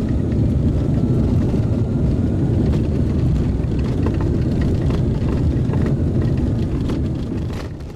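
ATR 42-600 turboprop airliner running loud and steady during takeoff: a deep rumble with faint steady whine tones above it. It fades out near the end.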